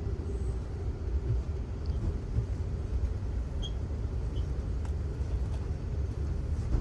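Steady low rumble of a moving passenger train heard from on board, with a faint steady hum and a few light ticks.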